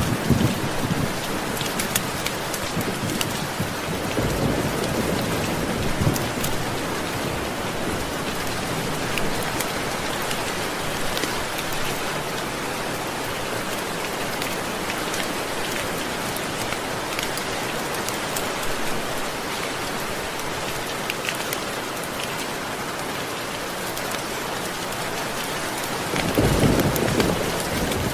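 Steady heavy rainfall with the hiss and patter of drops on surfaces. Low rolls of thunder come in about four seconds in and again near the end.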